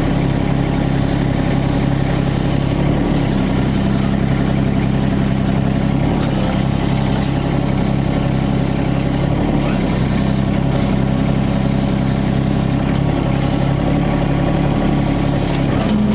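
Yanmar ViO25 mini excavator's diesel engine running steadily.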